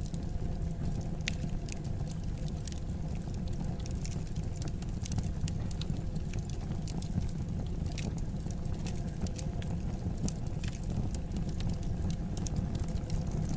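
Wood fire burning in a fireplace: a steady low rumble of flames with frequent, irregular crackles and small pops from the burning wood.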